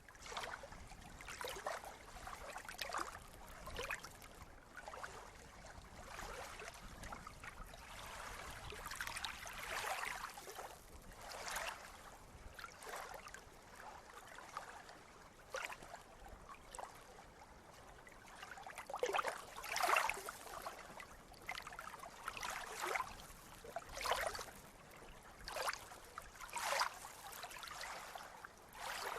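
Sea water lapping and splashing in small, irregular waves, a splash every second or two over a steady wash of water.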